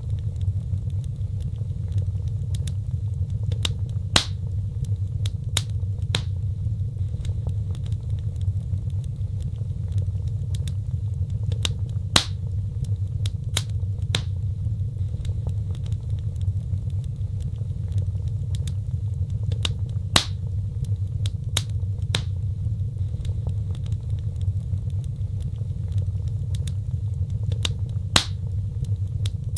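Wood fire burning in a fireplace: a steady low rumble of flames with scattered sharp crackles and pops, a few louder pops about every eight seconds.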